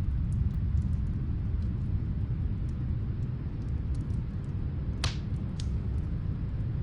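Snowstorm wind as a steady low rumble, with faint scattered crackles of a wood fire and one louder pop about five seconds in.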